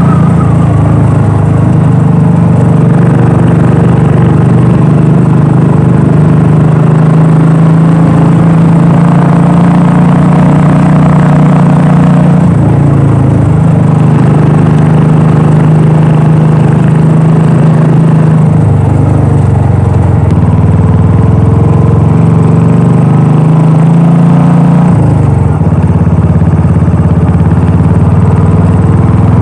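Royal Enfield Classic 350's single-cylinder engine and exhaust running loudly while riding, its low note changing in steps three times.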